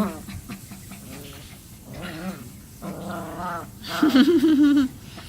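Puppies whimpering and growling in a few short wavering calls, the loudest and longest about four seconds in.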